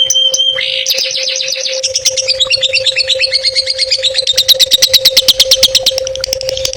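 Songbird song played as masteran, the training audio for cendet: a short whistled note, then fast repeated trills and chattering phrases. About four seconds in it runs into a very rapid, even trill. A steady low hum lies underneath.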